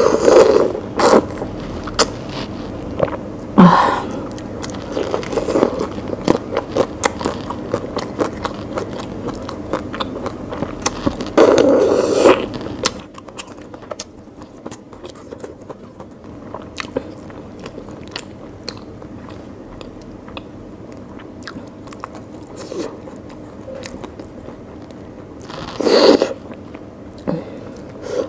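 Close-up eating sounds: a person biting and chewing masala prawns and curry, with crunches and wet mouth noises, and a few louder bites or slurps scattered through.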